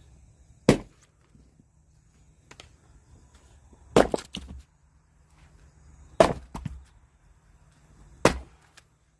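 Firewood being chopped: four sharp strikes a couple of seconds apart, some followed by smaller cracks as the wood gives.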